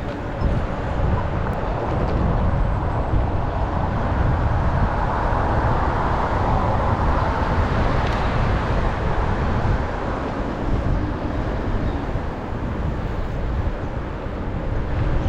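Wind rushing over the microphone and tyre noise from an e-bike riding at speed, swelling through the middle and easing near the end.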